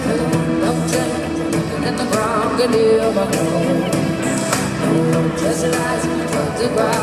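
Live pop music with a sung lead vocal over a band, recorded from the audience at a concert.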